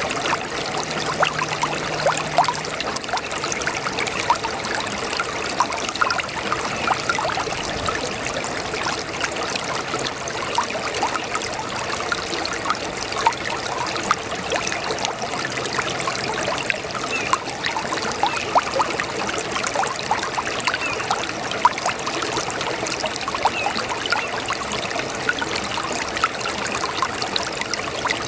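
Small brook babbling: a steady run of water trickling and gurgling, full of many small splashes.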